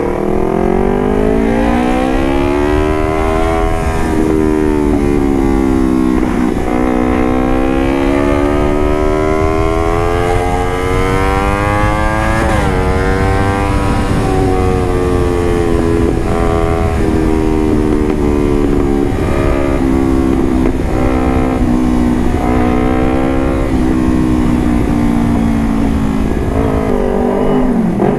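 Motorcycle engine running through an aftermarket carbon exhaust while being ridden on the throttle. The exhaust note rises and falls with the revs, dipping sharply once about twelve seconds in.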